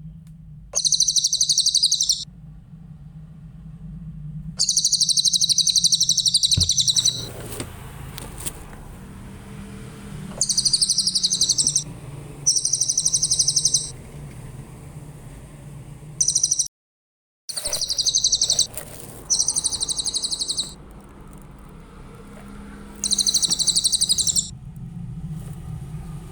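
Cililin songbird singing: short, high-pitched phrases of rapid trilling, each one to two seconds long, repeated about eight times with pauses between, over a steady low hum.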